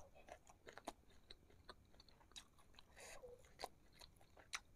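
Faint chewing of sauce-coated fried meatballs (bakso goreng): scattered wet mouth clicks and smacks, a few a second, with a short breathy rustle about three seconds in.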